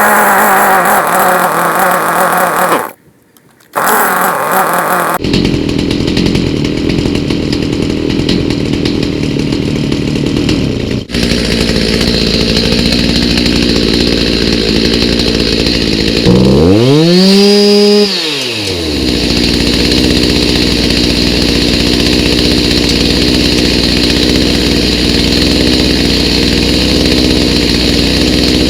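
Stihl MS290 two-stroke chainsaw engine running on a replacement aftermarket carburetor. It cuts out briefly about three seconds in, then runs steadily. It revs up and back down once about seventeen seconds in, then settles back to a steady idle.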